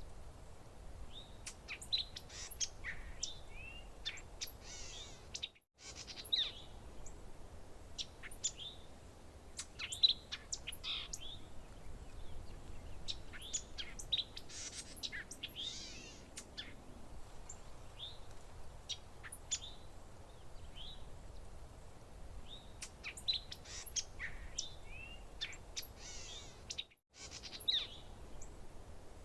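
Several birds chirping and calling, with short high chirps, sweeping notes and trills over a faint low hiss. The sound cuts out completely for a split second twice.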